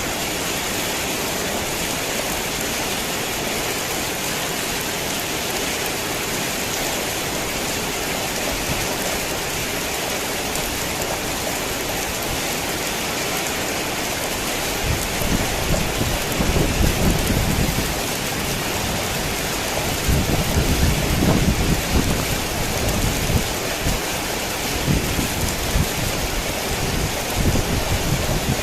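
Heavy rain falling steadily as an even hiss. About halfway through come two long, low rumbles a few seconds apart, with fainter ones near the end, like distant thunder.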